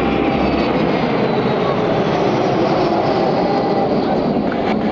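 Jet noise from Avro Vulcan XH558's Bristol Olympus turbojets as it flies past in formation with two Folland Gnat jets. It is a loud, steady rush with a faint high whine that slowly falls in pitch.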